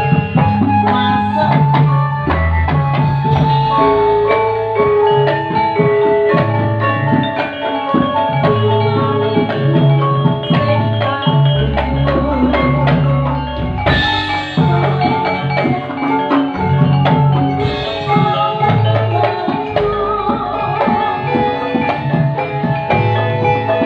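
Campursari music: an ensemble plays struck mallet percussion and drums in a dense, rhythmic pattern over a repeating bass line.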